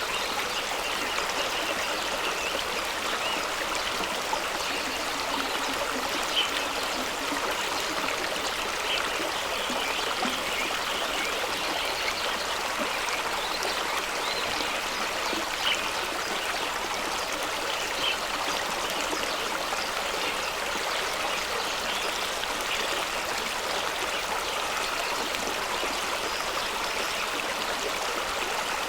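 Fast stream running over rocks: a steady rush of water with small splashes and gurgles now and then.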